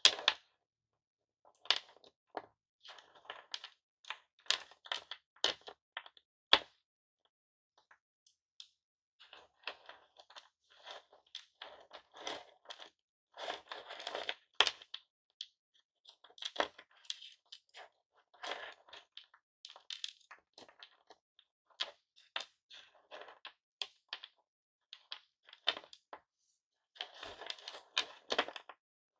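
Hard lollipop candy being cracked and handled, making irregular bursts of sharp clicks and crackles with short pauses.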